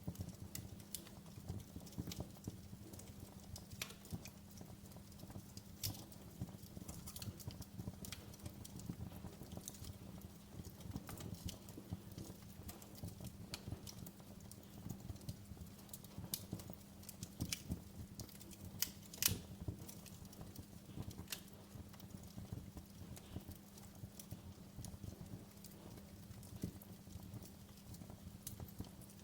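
Wood fire crackling in a fireplace: irregular sharp pops and snaps over a steady low rumble, with one louder pop about two-thirds of the way through.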